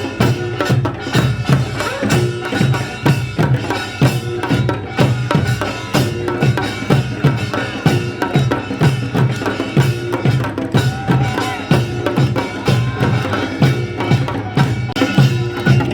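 Korean folk music from a folk song drama performance: a steady, fast drum beat of about two to three strokes a second, with pitched melody or voices over it.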